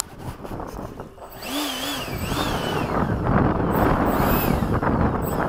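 Electric ducted-fan RC jet in flight: a high fan whine that wavers up and down in pitch, with a rushing noise that builds from about a second and a half in.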